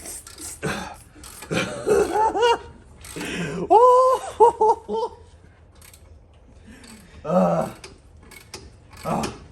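Men laughing in short, pitched bursts, with a quick run of laughs about four seconds in, then a few faint clicks and one more vocal burst near the end.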